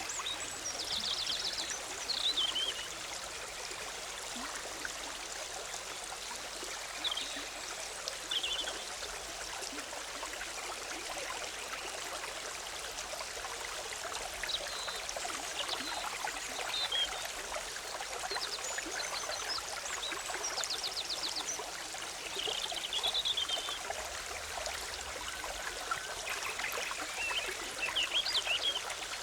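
Forest stream bubbling and trickling steadily, with songbirds chirping and trilling over it every few seconds.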